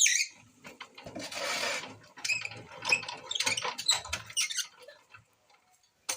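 Irregular clicking, rattling and scraping of something mechanical being handled, with a short burst of hiss-like noise about a second in; no engine is running.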